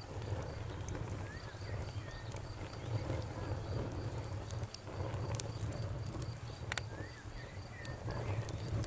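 Campfire burning with a steady low rumble, broken by scattered sharp crackles and pops, the loudest about seven seconds in. Crickets chirp steadily in a high, even rhythm of about three chirps a second.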